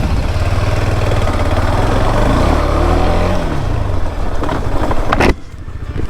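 KTM 390 Adventure's single-cylinder engine running under way on a dirt trail, revving up and easing off in the middle; the sound drops off sharply about five seconds in.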